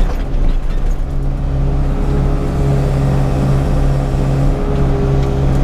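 Excavator's diesel engine running steadily, heard from inside the operator's cab.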